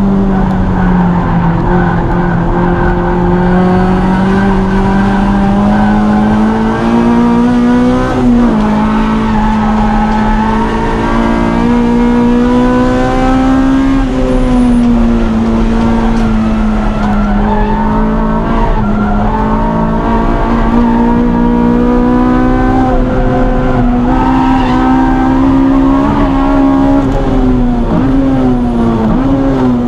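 Car engine on a track lap, its note rising and falling repeatedly through acceleration, braking and corners, with worn-out tyres squealing.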